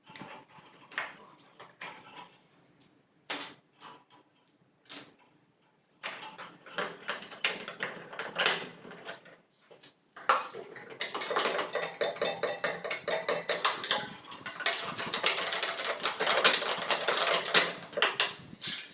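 Hand work on hard, metal-sounding parts: a few separate knocks and clicks, then a long stretch of rapid clinking and clattering that pauses briefly about halfway through.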